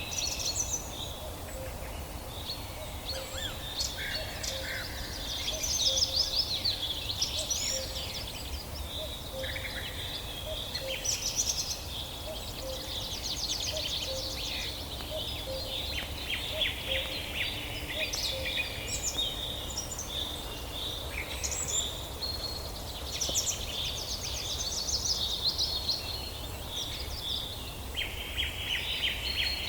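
A chorus of several songbirds singing at once: overlapping chirps, whistled phrases and rapid trills, one after another with no pause, over a steady low rumble.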